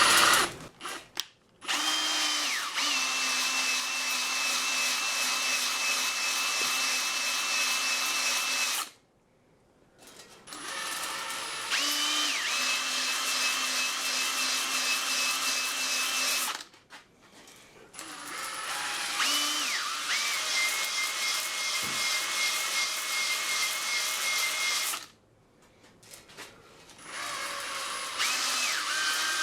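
Electric drill in its low gear driving a cylinder hone in an engine block's bores. It runs in four stretches of several seconds, each starting with a quick rising whine that settles to a steady hum, with short pauses between.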